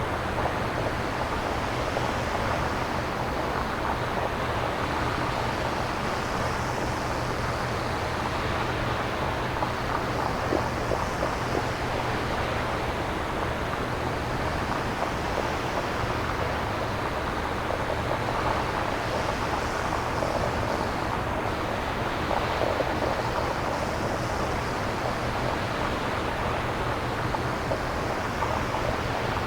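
Synthesized nature-sound noise from a synthesizer, with no recorded samples: a steady rushing hiss over a low hum, its upper part swelling gently every few seconds like surf or wind.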